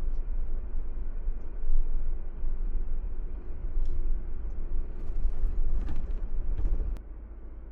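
Car driving, with a steady low rumble of road and wind noise that drops off abruptly about seven seconds in.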